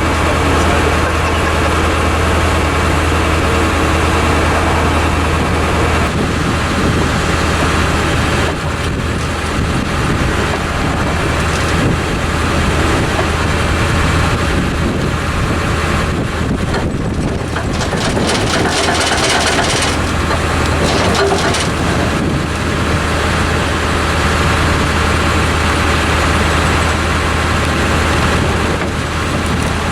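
Tractor engine idling steadily with a constant low drone. A little past the middle there is a short stretch of fast rattling.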